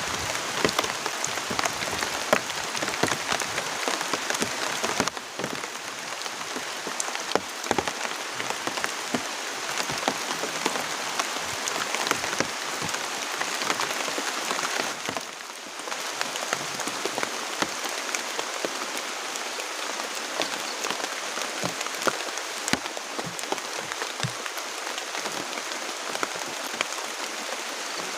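Rain falling steadily, with many sharp individual drop impacts close to the microphone; it eases briefly twice.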